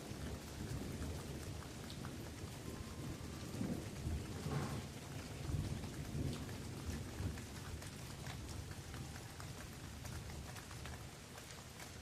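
Steady rain falling on forest leaves, with scattered close drops. A low rolling rumble of thunder builds and is loudest around the middle, then fades.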